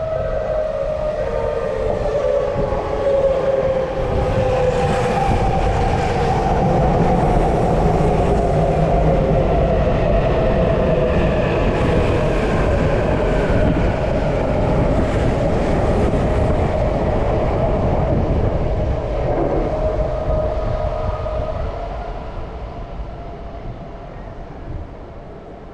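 Tokyu Toyoko Line limited express train passing through the station without stopping. It runs loud and steady for about twenty seconds with a whining tone that falls in pitch at the start, then fades away near the end.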